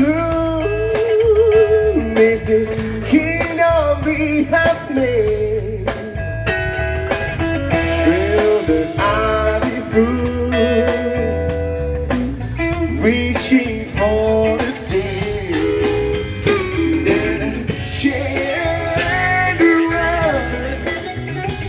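Blues-style band music: guitar over a steady bass and drum beat, with a melody line carried on through a stretch without lyrics.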